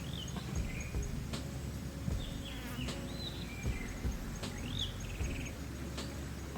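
Small bird chirping in short rising and falling calls, a few times, over steady low background noise, with a few sharp clicks.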